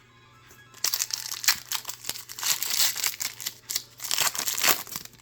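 Foil Pokémon booster pack wrapper crinkling and tearing as it is opened, starting about a second in with a dense run of crackles.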